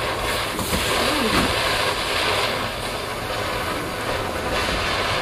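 A lit garden firework hissing steadily as it burns, swelling louder and softer.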